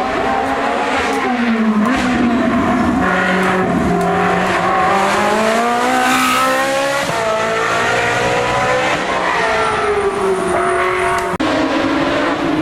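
Race car engine at high revs climbing a hillclimb course. The pitch rises through several gears and drops at each shift. A short break near the end gives way to another stretch of engine sound.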